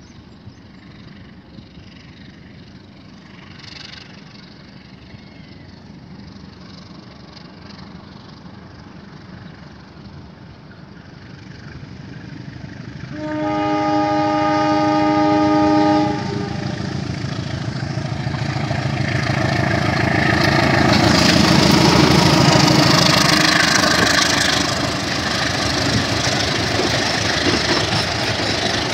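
CC203 diesel-electric locomotive hauling a passenger train: a low rumble grows as it approaches, then a chord horn sounds one blast of about three seconds. The locomotive's engine and wheels then pass close by loudly, followed by the coaches rolling past on the rails.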